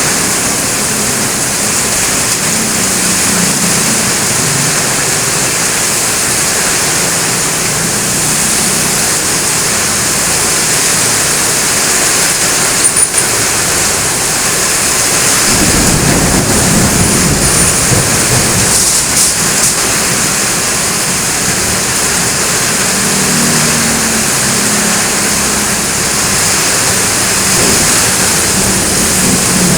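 Heavy rain pouring steadily, with a low rumble swelling for a few seconds about halfway through.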